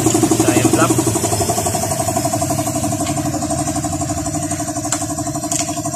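Small engine idling steadily with a fast, even pulse, easing slightly in level after about two seconds, with a few light clicks.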